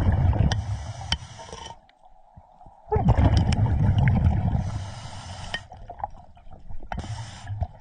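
Scuba diver breathing through a regulator underwater, exhaled air bubbling and gurgling past the microphone in two spells split by a short pause about two seconds in.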